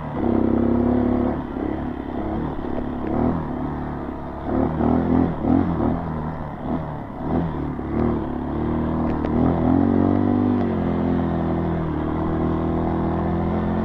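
Honda CRF dirt bike's single-cylinder four-stroke engine running as it is ridden, its pitch rising and falling with the throttle, with a few knocks and rattles.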